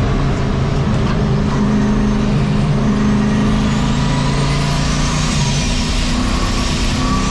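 Turbocharged 1951 Chevy race truck's engine running steadily under way on track, heard from inside the cab. A faint high whine, rising and falling in pitch, comes in about halfway.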